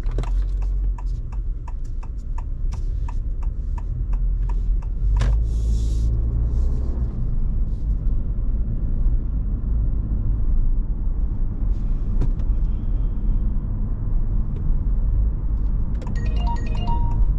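Steady low road and engine rumble inside the cabin of a Honda ZR-V on the move. Turn-signal ticking runs for about the first two seconds. There is a single click about five seconds in and a short electronic chime near the end.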